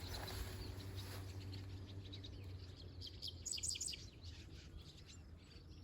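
Birds chirping faintly in short high calls, with a quick cluster of chirps about three and a half seconds in, over a low steady hum.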